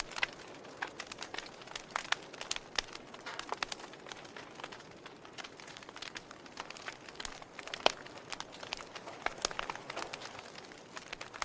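Fire crackling: irregular sharp pops and snaps over a soft steady hiss, with one louder pop about eight seconds in.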